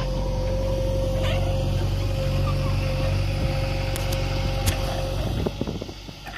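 Diesel engine of an earthmoving machine running steadily with a steady whine over it, then quietening sharply about five and a half seconds in, leaving a few clicks.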